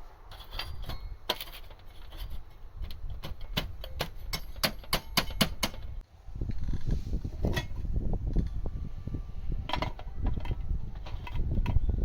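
Light metal parts clinking and clicking as they are handled, a quick run of sharp clicks over the first half. About halfway through a louder low rumble takes over, with a few scattered clicks over it.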